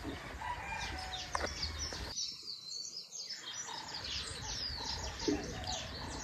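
Small birds chirping, many short high calls overlapping throughout, over a low steady rumble.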